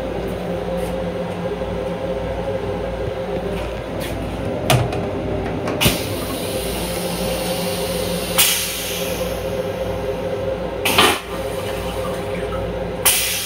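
Long Island Rail Road M7 electric railcar running, heard from inside its restroom: a steady rumble with a low hum. About five sharp knocks and clacks break through it, one of them followed by a short hiss.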